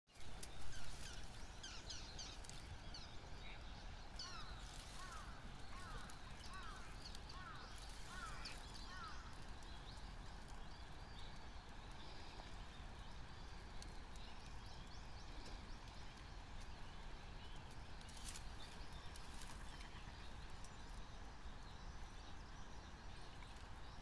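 A flock of swans calling, with a quick run of short, hooked calls a couple of seconds in and fainter calls later, over a steady low outdoor rumble.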